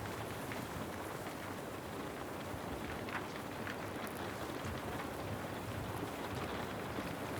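Steady rain falling: an even hiss with a few sharper drop taps scattered through it.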